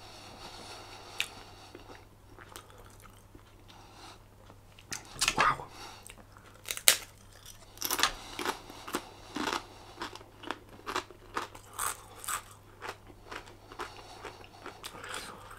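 A person chewing a mouthful of beef curry close to the microphone, mouth closed, with short wet chewing clicks coming about two a second from roughly halfway through.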